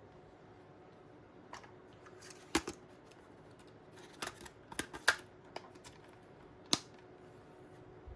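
Sony WM-51 cassette Walkman being handled: a scattered series of sharp clicks and knocks, about a dozen in all, three of them louder than the rest.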